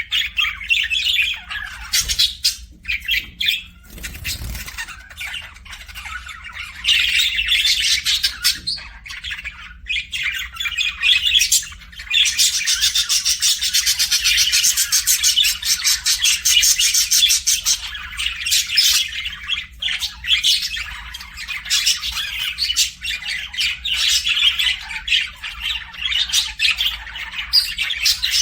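A flock of small pet birds, parrots such as parakeets, chirping, chattering and squawking without pause, with a denser, louder run of fast chatter in the middle.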